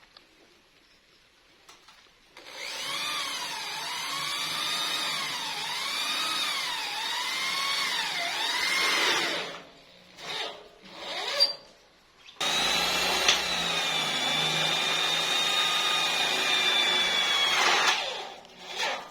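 Handheld power tool running under load, its pitch repeatedly dipping and picking back up as it bites, then a few short blips of the trigger, then a long steady run at full speed that cuts off near the end.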